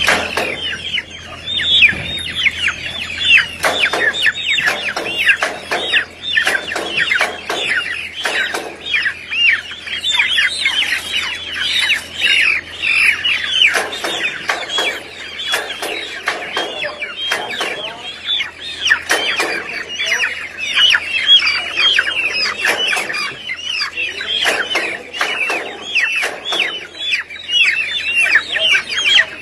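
A crowded flock of chickens calling nonstop, many short high calls overlapping with clucks mixed in.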